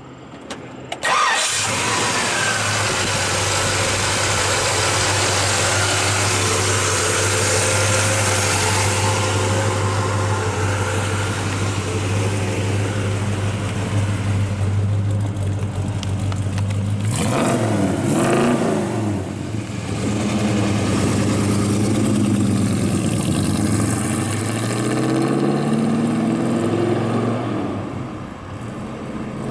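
1967 Chevrolet Chevelle SS's 396 big-block V8 starting up about a second in and idling steadily. A bit past halfway it is revved a few times, then the car pulls away, the engine rising in pitch again and again as it accelerates.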